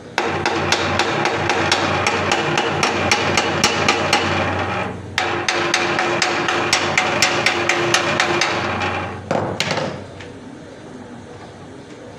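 Multi-head embroidery machine running, its needle mechanism giving rapid, evenly spaced metallic clacks over a steady motor hum. It stops briefly about five seconds in, starts again, and runs down near the end with a couple of last clacks.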